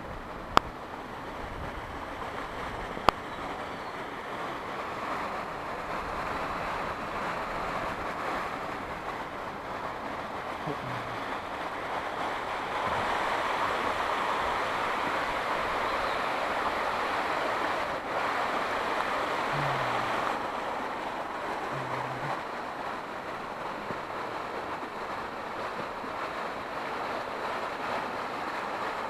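Steady rush of waterfall water cascading over rock, a little louder in the middle, with two sharp clicks in the first few seconds.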